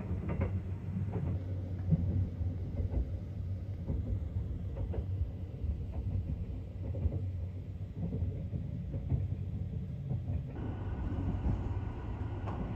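Train running on the rails: a steady low rumble with faint, scattered clicks, and a wider hiss joining about ten seconds in.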